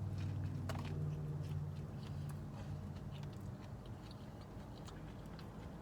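Close-up chewing and biting of food, with many small crisp clicks and crunches, over a low steady hum that fades a little after about three seconds.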